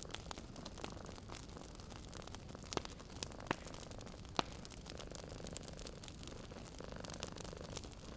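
Wood fire crackling in a fireplace: a steady run of small snaps and ticks over a low hiss, with three louder pops near the middle.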